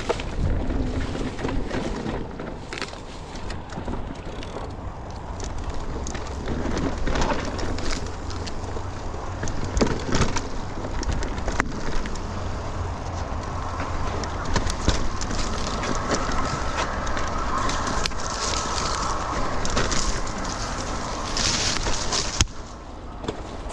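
Mountain bike descending a dirt trail: tyres running over the ground with frequent rattles and knocks from the bike over bumps, and a steady wind rumble on the microphone.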